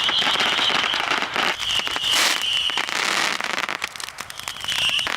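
Big bonfire of dry Christmas trees burning fiercely, with dense, irregular popping and crackling. A steady high whistling tone runs through the first half and comes back briefly near the end.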